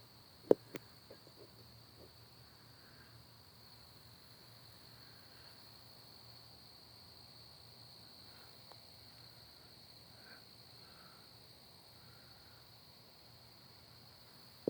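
Steady high-pitched chirring of crickets at night. A sharp click comes about half a second in, followed by a few softer clicks over the next second or so.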